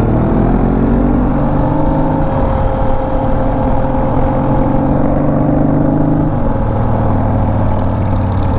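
Motorcycle engine accelerating, its pitch rising over the first second and a half, then running steadily.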